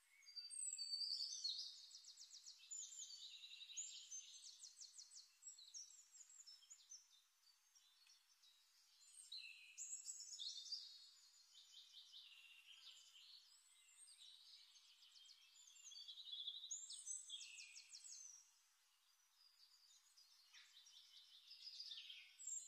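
Faint birdsong: a songbird singing short high phrases of fast trills and gliding notes, in bursts every few seconds with pauses between.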